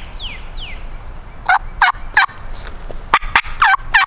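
A songbird's quick run of descending whistled notes in the first second, then a series of loud turkey yelps, about three a second, with a couple of sharp clicks among them.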